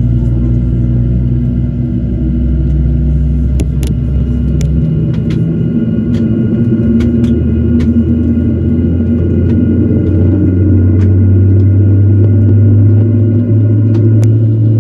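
Boeing 737-700 cabin noise: a steady low rumble and hum with several held tones and a few faint clicks. The deepest part of the hum drops out about five seconds in.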